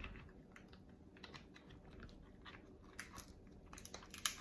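King crab leg shell being cut and pried open, faint scattered clicks and crackles with two sharper cracks, about three seconds in and near the end.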